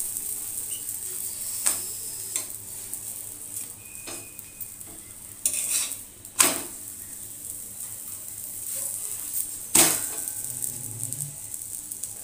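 Aloo parathas shallow-frying in oil on a flat iron tawa, sizzling steadily. A metal spatula scrapes and knocks against the tawa a few times as the parathas are pressed and flipped, most sharply around six and ten seconds in.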